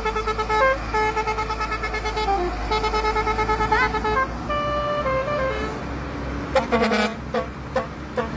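Truck's musical horn playing a tune of held notes that step up and down in pitch, each with a fast warble. Near the end it breaks into short toots and knocks.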